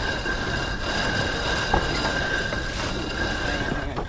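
A loaded sheet squealing steadily as it is eased out around a winch drum during a jibe, over wind noise on the microphone. The squeal stops just before the end.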